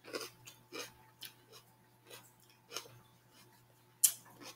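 Close-miked crunchy chewing of a small raw red pepper: a string of short, crisp crunches at irregular spacing, the sharpest one about four seconds in.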